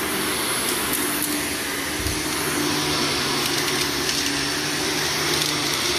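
Vacuum cleaner running steadily, dry-vacuuming worn carpet ahead of a carpet cleaning, with one brief low bump about two seconds in.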